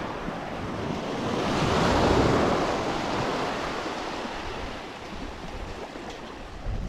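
Sea waves breaking and washing onto the shore, one surge swelling about two seconds in and slowly fading.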